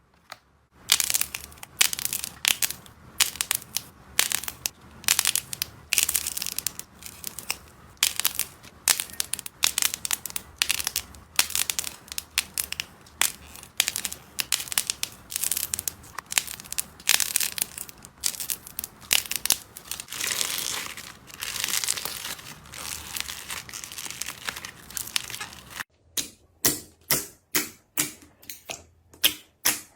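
Slime being squeezed and worked by hand, giving a dense, irregular run of crackling, crunching pops. About 26 seconds in it cuts to evenly spaced sharp clicks, about two a second.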